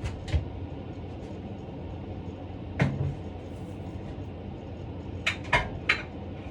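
Kitchen cookware being handled: two quick knocks at the start, a heavier knock a little before the middle, and three quick clinks near the end, over a steady low hum.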